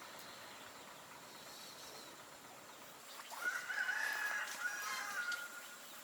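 A rooster crowing once, starting about three seconds in, one call lasting around two seconds.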